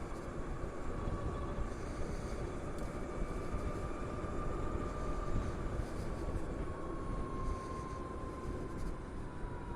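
Wind and road rush on a Harley-Davidson LiveWire electric motorcycle on the move, with the motor's thin whine sliding slowly down in pitch as the bike eases off.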